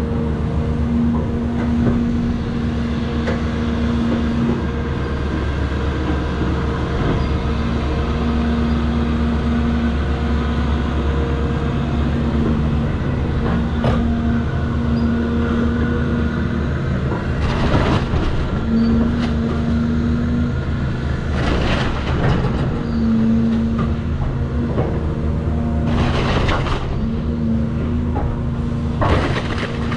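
Cat 336 excavator's diesel engine and hydraulics running steadily under load, heard from on the machine, with a pulsing hydraulic whine. In the second half come several short bursts of crunching and cracking as the wood-frame house breaks apart.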